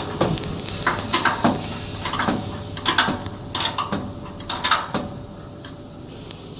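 Irregular metallic clinks and knocks, about a dozen, from metal parts being handled during setup of a band saw paper-cutting machine. They stop about five seconds in.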